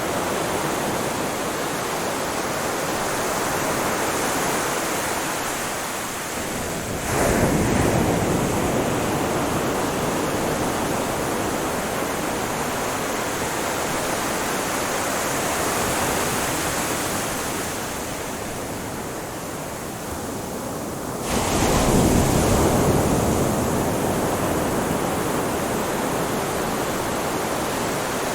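Ocean surf washing steadily on a shore, with two waves breaking more loudly, one about a quarter of the way in and another about three quarters through, each fading back into the wash.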